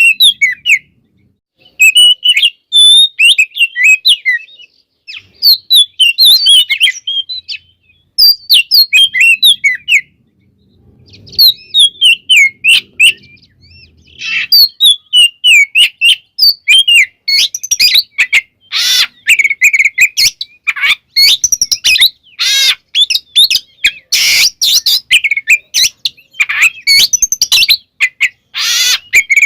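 Oriental magpie-robin (kacer) singing in varied whistled phrases of a second or two, separated by short pauses. From about halfway the song grows denser, with harsh, scratchy notes mixed among the whistles.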